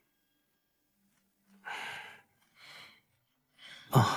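Soft breathy exhales, the clearest one about two seconds in and fainter ones after, with near quiet between; a voice begins right at the end.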